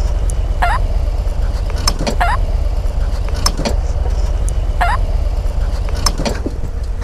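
Harley-Davidson Road Glide ST's Milwaukee-Eight 117 V-twin running at low speed, a steady low rumble. A few short high squeaks sound over it every second or so.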